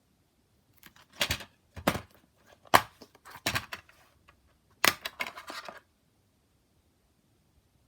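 Plastic DVD case being handled: a quick series of clicks and clacks with some rustling, stopping about six seconds in.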